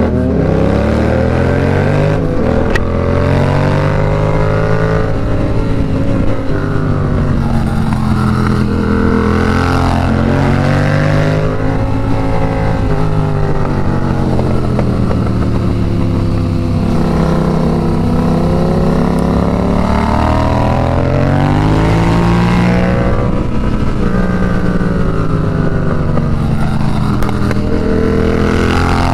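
Yamaha FZ-07's parallel-twin engine, revs rising and falling again and again as the bike is ridden hard through a run of corners, over steady wind rush on the microphone.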